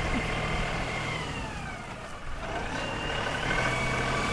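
Diesel engine of an LS XR3135 compact tractor running with a steady whine while digging potatoes. Its pitch sags about a second and a half in and climbs back a second or so later, as the engine takes load and recovers.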